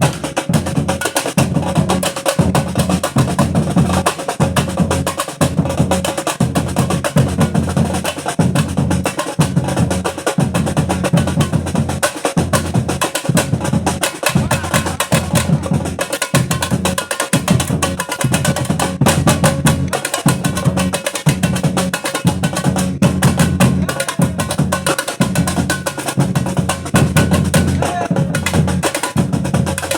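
Batucada drum ensemble playing together in a steady, driving rhythm: deep surdo bass drums pulse under dense snare and high drum strokes.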